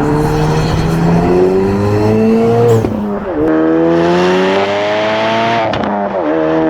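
Ford Focus RS engine accelerating hard through the gears. Its pitch climbs steadily, then drops sharply at each upshift, twice.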